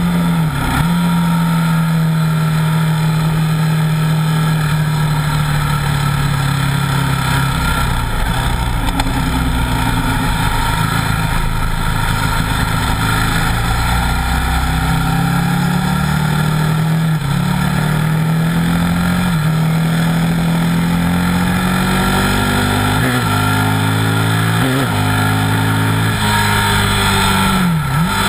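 Buell 1125R's V-twin engine running hard on track, its pitch climbing and falling in steps as the rider works the throttle and gears, with a few quick sharp dips at gear changes, most of them in the last few seconds.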